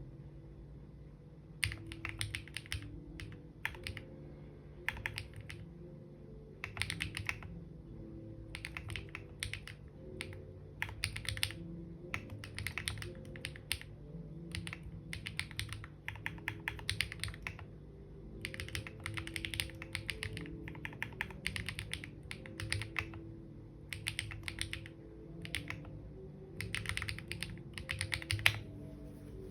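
Typing on a computer keyboard: quick runs of key clicks in short bursts with brief pauses between them, starting about two seconds in.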